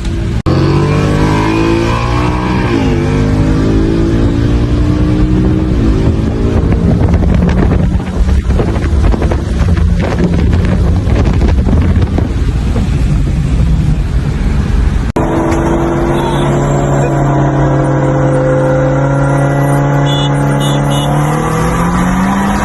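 Car engine under hard acceleration, its pitch climbing and dropping back at quick gear shifts about three and six seconds in. After an abrupt cut about fifteen seconds in, an engine holds a steady note, then revs up near the end.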